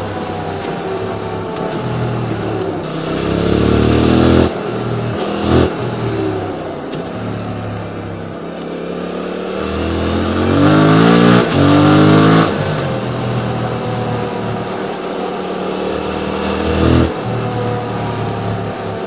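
QJ Motor SVT650X parallel-twin engine through an Arrow slip-on exhaust, revving up hard in rising sweeps that break off at gear changes, with steadier running in between. The longest and loudest pull comes about halfway through, and shorter bursts come a few seconds in and near the end.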